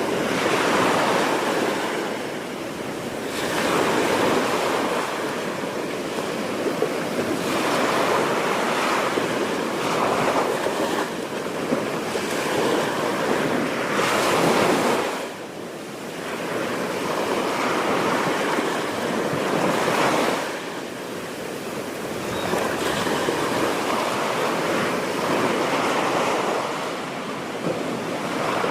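Ocean surf: waves breaking and washing up the beach, the noise swelling and easing every few seconds, with wind buffeting the microphone.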